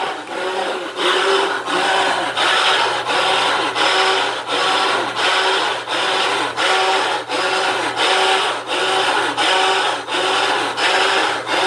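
Washing machine making a loud, obnoxious noise that repeats in an even rhythm, about three pulses every two seconds, each pulse carrying a held pitched note over a grinding hiss.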